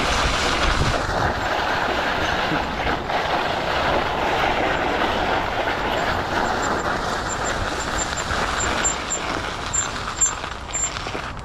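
Steady rushing of wind on the microphone and tyre noise from a mountain bike being ridden, easing a little near the end.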